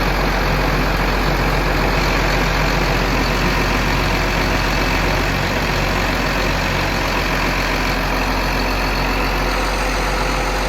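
Tractor engine running steadily, a loud even drone with a constant low hum.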